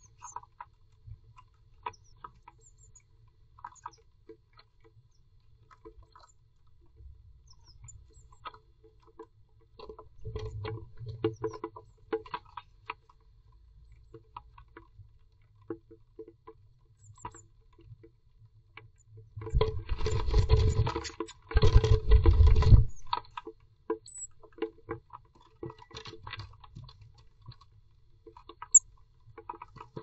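Blue tit moving about inside its nest box: scattered scratching and tapping of feet and beak on the box and nest material, with louder rustling and bumping a little after ten seconds in and again twice around twenty to twenty-three seconds in.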